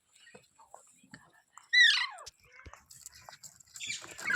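A parrot gives one loud squawk about two seconds in that falls sharply in pitch, with faint clicks around it. Near the end a fast run of repeated calls begins.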